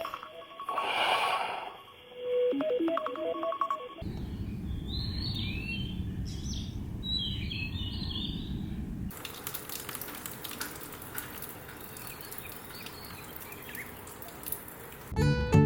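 A run of separate ambient recordings: a few short electronic tones first, then birds chirping over a steady low rumble, then a quieter hissing ambience. Acoustic guitar music starts near the end.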